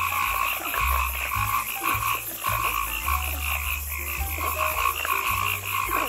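A chorus of frogs calling in rapid, overlapping pulses.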